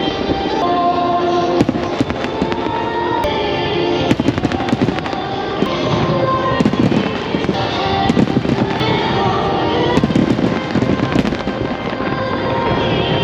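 Aerial fireworks bursting in quick succession over loud show music, with many sharp bangs and crackles, thickest from about four to eleven seconds in.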